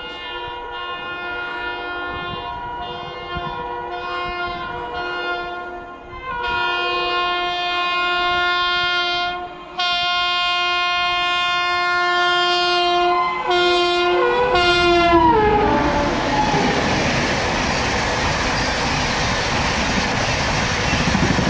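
Indian Railways electric locomotive's horn sounding long and steady as the train approaches, broken once briefly a little before halfway. Its pitch drops sharply as the locomotive passes at speed about two-thirds of the way through. Then comes a loud rush and clatter of LHB coaches running through at high speed.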